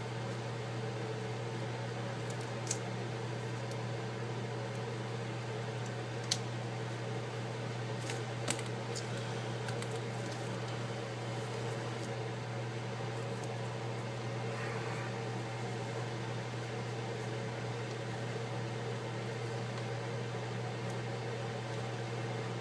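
Steady low mechanical hum, like a fan or appliance motor running, with three faint light clicks of small parts or tools being handled.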